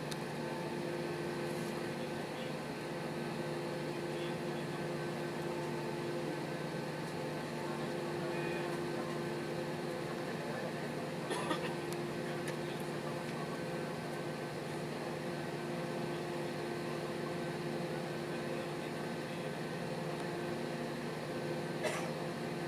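Steady droning cabin hum inside an Airbus A320-214 on the ground, with a few held low tones under an even rush of air. Two brief clicks, one about halfway through and one near the end.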